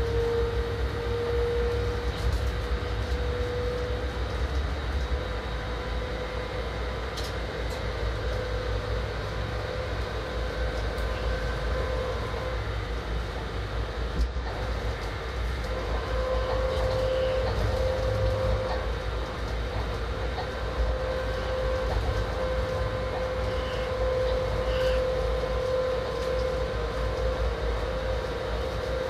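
Electric train running along the line, heard from inside the driver's cab: a steady running rumble with a steady whine that rises slightly in pitch over the first few seconds and then holds.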